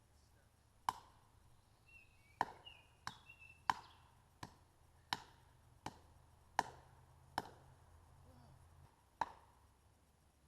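Firewood being chopped: about ten sharp, separate blows at an unhurried, fairly even pace, with a longer pause before the last one.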